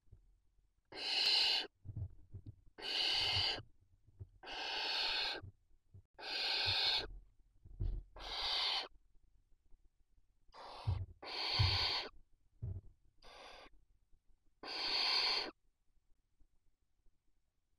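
Barn owl chicks giving their rasping, hissing food-begging calls, about ten of them, each under a second long and repeating every couple of seconds.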